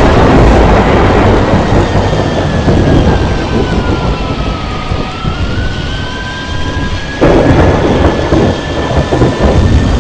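Fokker 70's Rolls-Royce Tay turbofans running with a loud rushing rumble and a thin whine that dips in pitch and rises again. The rumble jumps suddenly louder about 7 seconds in.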